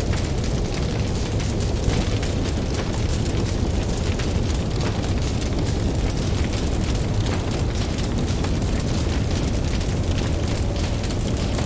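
Campfire crackling with many small, irregular pops over a steady low rumble of ocean surf.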